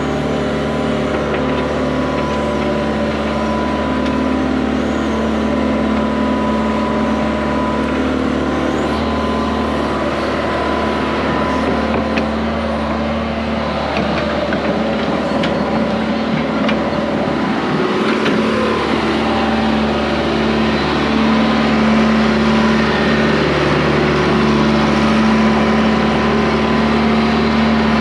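Excavator's diesel engine running steadily while digging into hard ground, with a few light knocks.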